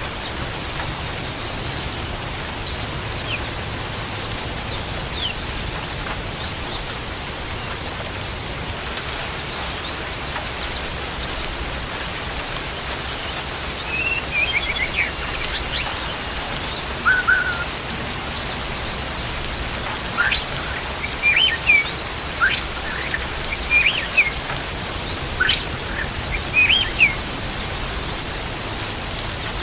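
Wild birds giving short, sparse chirps and whistles that begin about halfway through, over a steady hiss.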